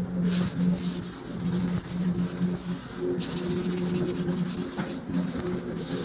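Electric sander working over drywall: a steady motor hum under a scratchy hiss that swells and fades as the pad is moved across the wall.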